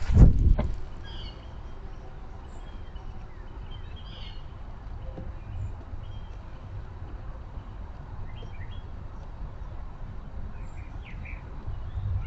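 Wild birds giving short, high chirps and calls on and off, with a few quick ones together near the end, over a steady low rumble of wind on the microphone. A brief, loud low rush in the first second is the loudest sound.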